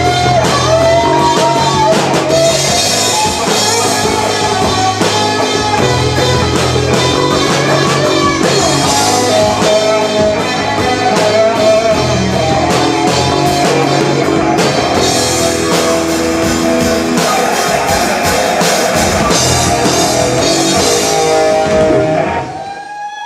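Live rock band playing, with electric guitar and drum kit. The song winds down and stops about a second before the end.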